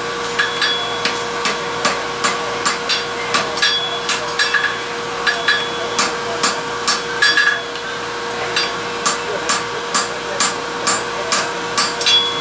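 Hand hammer striking steel on an anvil in a steady rhythm of about two blows a second, forging a welded ring toward square by working its corners. A steady hum runs underneath.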